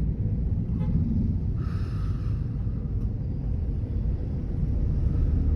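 A car driving along, with a steady low rumble of engine and road noise and a brief hiss about two seconds in.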